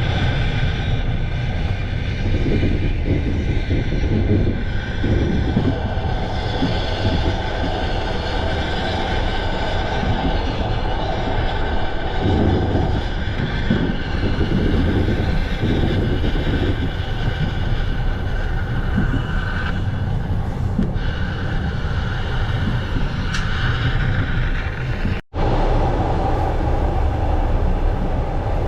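Passenger train in motion heard from inside the carriage: a steady rumble of wheels running on the rails, with a faint high whine from the running gear. The sound briefly drops out about 25 seconds in, then resumes unchanged.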